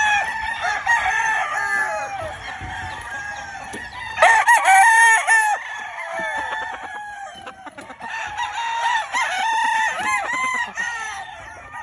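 A yard of roosters crowing over one another, with clucking among them; the loudest crows come about four seconds in.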